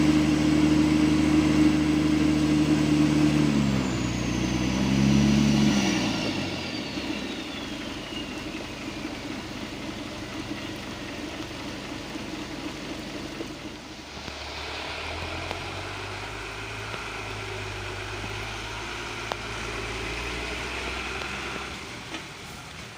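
Diesel truck engine running hard, then easing off about three and a half seconds in with a brief rev before it dies down, while a high whine falls away over several seconds. A fainter, lower engine hum comes in about halfway through.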